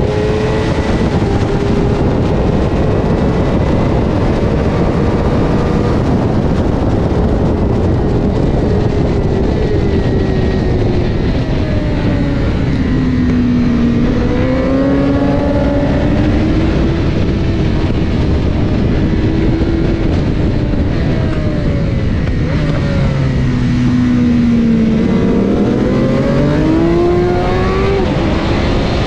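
Onboard sound of a 2021 Superstock-spec Honda CBR1000RR's inline-four engine under heavy wind rush, its pitch held high and steady at first. About twelve seconds in the engine note drops and wavers as the bike brakes and shifts down, then climbs again; a second drop and a rising pull come near the end as it accelerates out of a corner.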